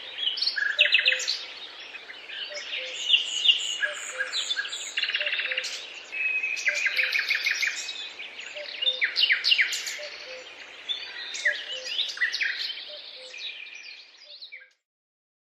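Several songbirds chirping and singing at once, a dense overlapping chorus of quick chirps and trills. It cuts off suddenly near the end.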